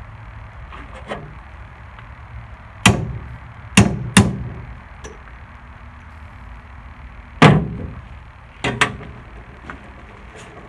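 Sharp knocks and clicks from hand work on a lawn-tractor starter motor's Bendix drive, about six strikes at irregular intervals, some in quick pairs, over a steady low hum.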